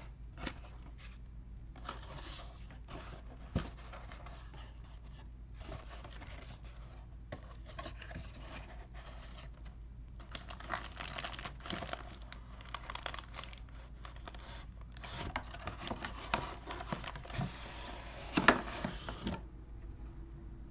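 A cardboard figure box and its packaging being opened by hand: irregular rustling, scraping and tearing, with a sharp knock near the end.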